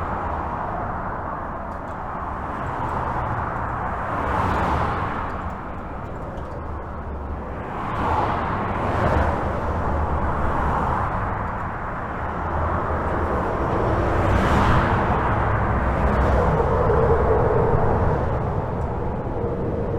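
Continuous highway traffic heard from under a bridge: a steady rush of tyres and engines. Individual vehicles swell past every few seconds.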